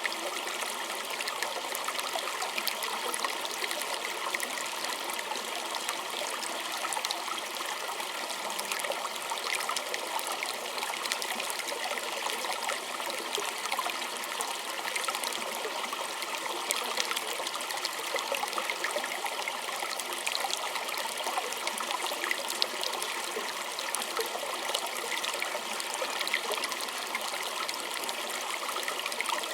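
Small stream trickling and gurgling over stones, a steady even flow with many small splashes and no change in strength.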